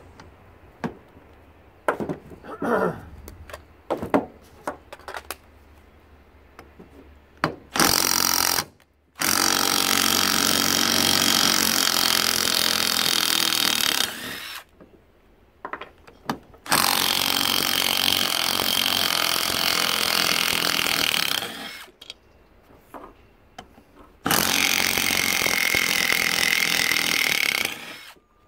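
Handheld electric power tool cutting through the lawnmower motor's shaft. It runs in one short burst and then three long ones of about four to five seconds each, with a steady high whine under the cutting noise. A few scattered knocks come in the first seconds.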